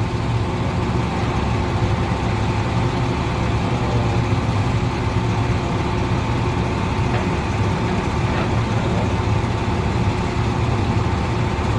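Heavy truck engine running steadily at an even speed, with no revving.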